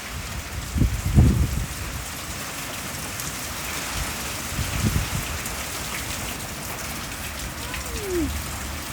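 Steady rain from a passing typhoon falling and dripping on surfaces, with low rumbles of wind on the microphone about a second in and again around five seconds.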